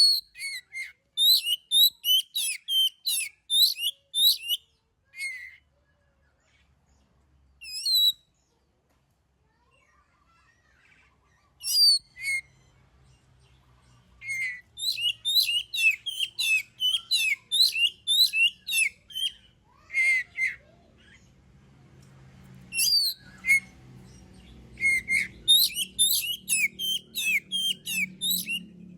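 Oriental magpie-robin (kacer) singing in full voice: fast phrases of short, sharp whistled and chirping notes, with a pause of several seconds early on broken by a single note. A faint low hum rises underneath in the second half.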